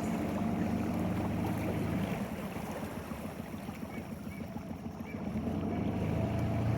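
A small dinghy's motor running steady. It eases off about two seconds in and picks up again near the end.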